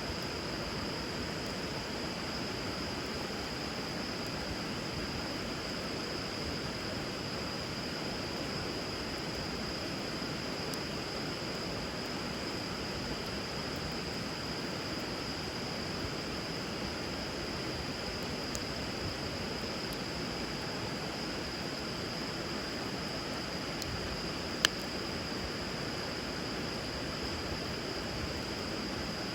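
Steady rush of river water with a wood fire burning on it, a few sparse crackles and one sharp snap from the fire about 25 seconds in. A constant high-pitched hum sits over it.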